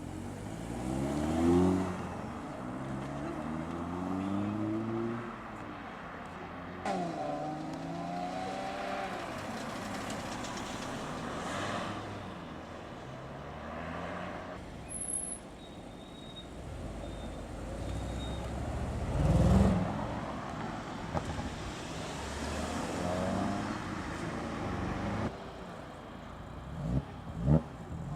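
Audi cars accelerating away one after another, each engine note climbing through the revs and dropping back at the gear changes before climbing again. A loud, short rev burst comes about two-thirds of the way through.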